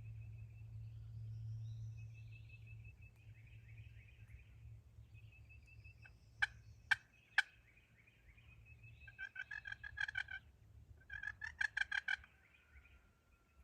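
Wild turkey gobbling twice, each gobble a rapid rattle lasting about a second, in the second half. A few seconds earlier come three sharp clicks about half a second apart.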